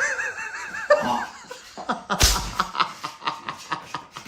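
People snickering and laughing, trying to hold it in. About two seconds in comes a sudden loud noise, followed by a run of quick short clicks.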